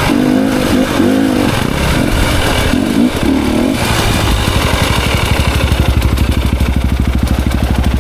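Off-road motorcycle engine revved up and down in repeated bursts for about four seconds, then settling to a steady idle with an even throb.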